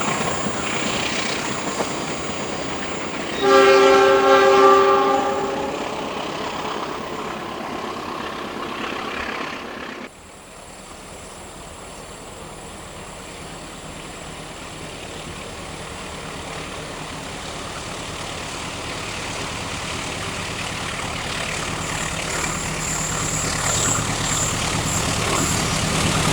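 Passing train running along the track, with a diesel locomotive's horn blown for a couple of seconds a few seconds in. After an abrupt break near the middle, another train's rumble grows steadily louder as it approaches.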